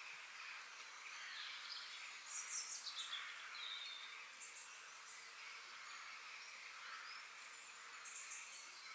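Forest ambience: songbirds chirping and trilling over a steady high hum of insects. A rapid run of high chirps about two and a half seconds in is the loudest moment, with more short high chirps near the end.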